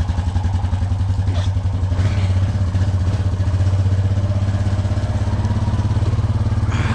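Honda Rancher ATV's single-cylinder four-stroke engine running at low, steady speed with an even pulse. It picks up slightly about two seconds in.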